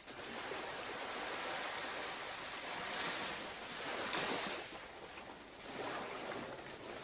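Surf washing onto a beach: a steady rush of waves that swells about three and four seconds in.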